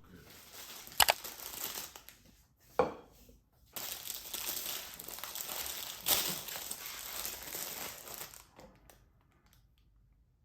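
Crinkling and rustling of something being crumpled or handled, with two sharp clicks in the first three seconds; it grows louder about four seconds in and stops a little before the end.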